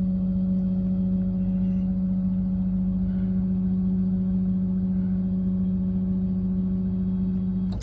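PTO-driven hydraulic pump of a Ford F-550's steel dump bed running under load with the 6.7L Powerstroke diesel as the bed raises: a steady, even hum that cuts off abruptly with a click near the end.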